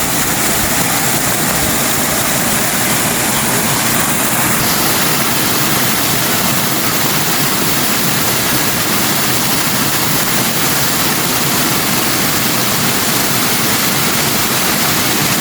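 Rushing water, a steady loud roar from a stream or waterfall.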